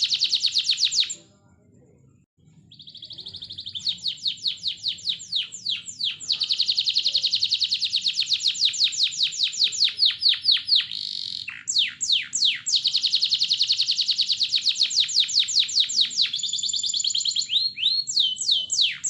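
Domestic canary singing: long, fast trills of repeated downward-sweeping notes. The song breaks off briefly about a second in, then picks up again with a held note before the trills resume.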